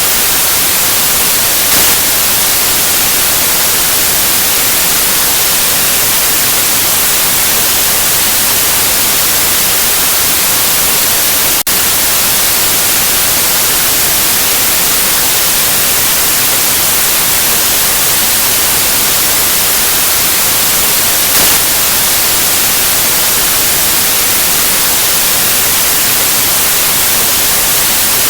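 Steady, loud white noise: an even hiss across all pitches, with no tones or rhythm, and a momentary dropout about twelve seconds in.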